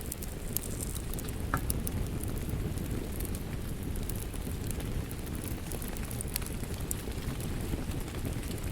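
A wood fire crackling with scattered sharp pops over steady falling rain.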